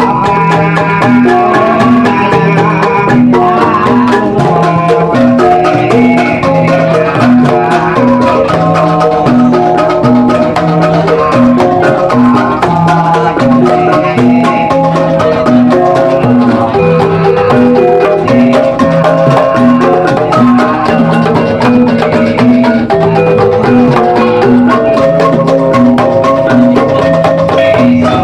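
Javanese gamelan ensemble playing a jathilan accompaniment: mallet-struck metal keys ring in a steady, repeating interlocking pattern over low notes that recur on an even beat.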